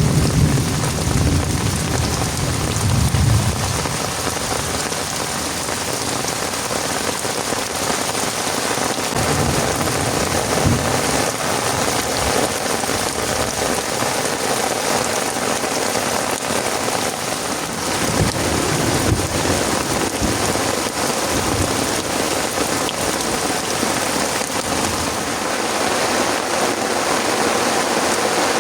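Heavy rain pouring steadily, with a low rumble of thunder in the first few seconds and a few shorter rumbles later.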